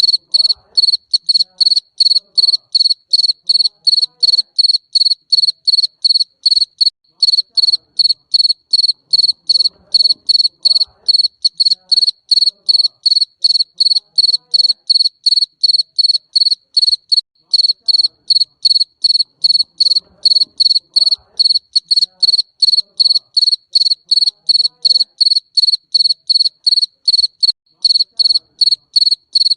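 Garden cricket chirping steadily: one high-pitched chirp repeated evenly about three times a second.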